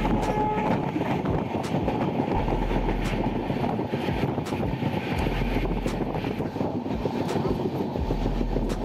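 Passenger train running along the track, heard from on board: a steady rumble of wheels on rail with a clickety-clack knock about every second or so.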